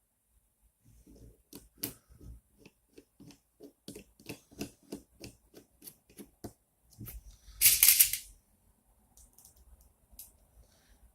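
Small hardware being worked by hand while assembling a 3D printer's acrylic frame: a run of evenly spaced sharp clicks, about three a second, for some five seconds. A short, louder rustling clatter follows about two-thirds of the way in.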